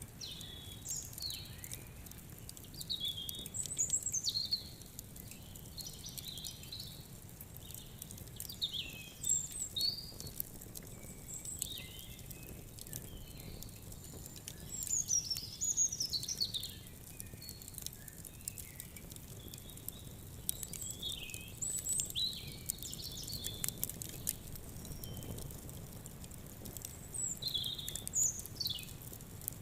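Birds chirping and singing, many short rising and falling whistles and trills, over the small sharp crackles and pops of a burning wood fire.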